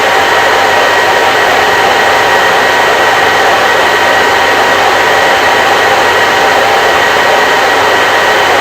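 Hair dryer running steadily: an even, unbroken rush of air with a faint motor whine in it.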